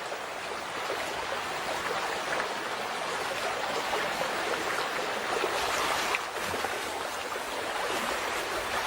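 Flowing stream or river water running steadily.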